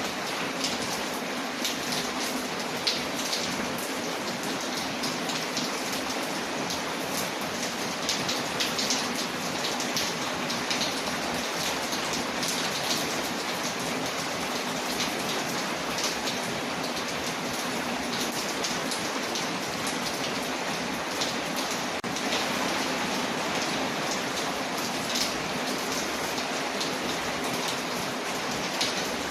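Steady rain on a window layered with a crackling fireplace: a dense, even hiss scattered with frequent small ticks and pops.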